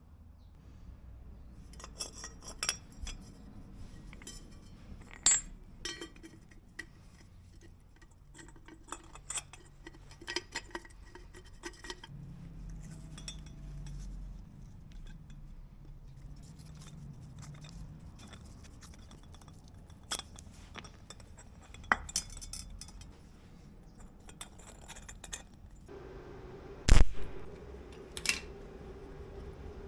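Metal tools and small hardware clinking and knocking at irregular intervals, with one loud clank about 27 seconds in. A low steady hum begins shortly before the clank.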